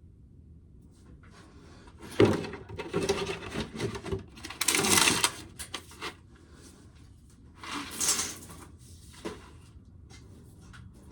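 Knocks, clatter and scraping of a tin can and loose shelled corn being handled under a corn sheller, with a sharp knock about two seconds in and another scrape near eight seconds.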